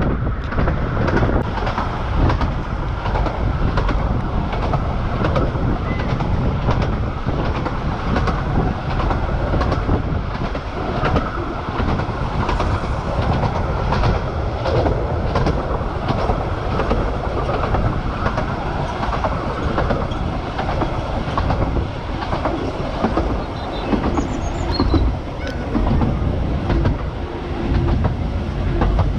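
Bure Valley Railway 15-inch-gauge train running along the line: a steady rumble with the wheels clicking over rail joints again and again.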